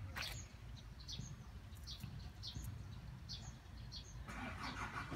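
A small bird chirping repeatedly, with short high chirps about one or two a second, over a low background rumble. A broader rushing noise comes up about four seconds in.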